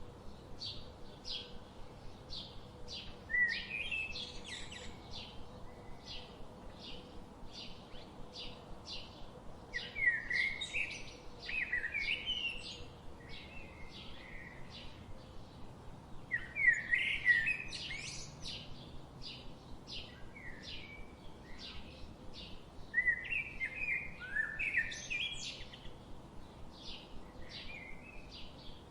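Forest birds singing. One bird repeats a short high note about every half second throughout, while another sings louder warbling phrases in bursts every few seconds.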